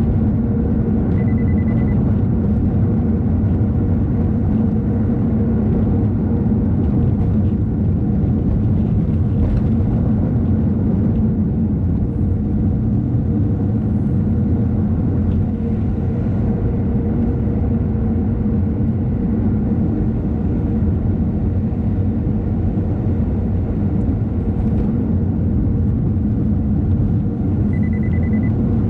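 A car's steady road and engine rumble while driving, dominated by low-pitched noise. A short high beep sounds about a second in and again near the end.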